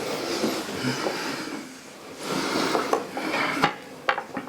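Metal telescope parts being handled and fitted together during assembly: light clinking and scraping, with two sharp clicks near the end.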